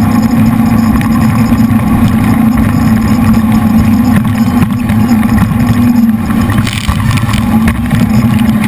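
Jet boat's three V8 engines running loud and steady under way, with a strong, even engine drone. About seven seconds in, brief hissing noise joins it.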